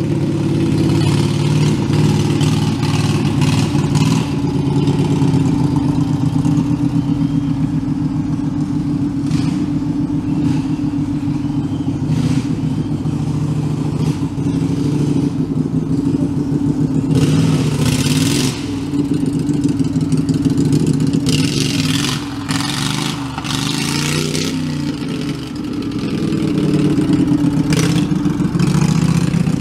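Homemade belt-driven tractor's engine running and revving under load, its pitch rising and falling, with a few short harsh bursts of noise in the second half.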